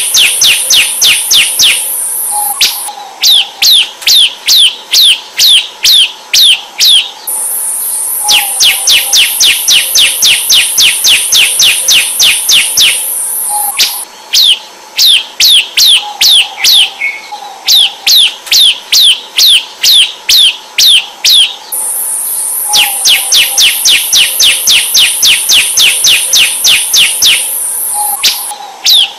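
Bar-winged prinia (ciblek) singing: long runs of sharp, repeated downward-slurred notes, some fast at about five a second and some slower. A thin, very high buzzing trill runs alongside in stretches of several seconds, breaking off and starting again.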